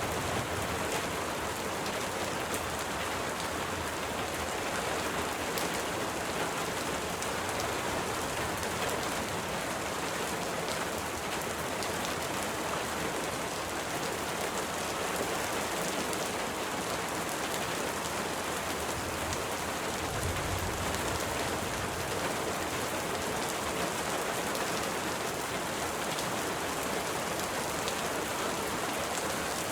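Steady rain falling: an even, unbroken hiss with scattered individual drop hits.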